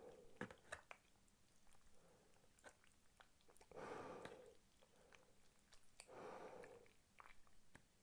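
Close-miked chewing of spicy Korean rice cakes (tteokbokki), with soft, wet mouth sounds and small clicks. There are two louder chewing stretches, about four and six seconds in.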